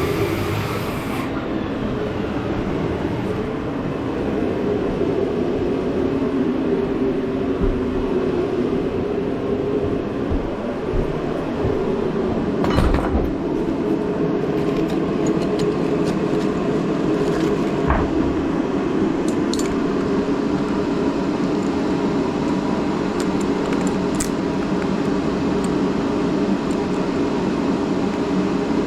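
A Sawzall reciprocating saw runs steadily as it cuts through mobile home subfloor, with a few sharp knocks as the blade and saw shoe strike the floor, the loudest about 13 and 18 seconds in.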